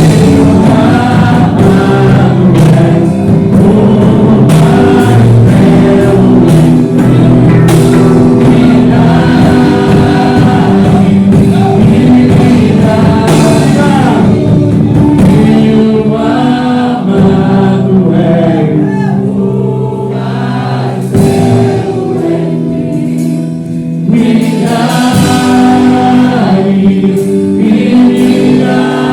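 Christian worship song: voices singing over instrumental backing, easing off a little about two-thirds of the way through before building again.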